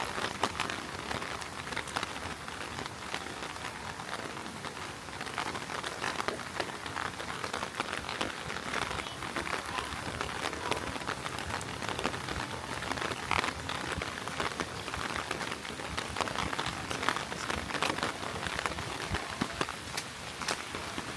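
Heavy rain falling steadily, a dense patter of individual drops hitting nearby surfaces.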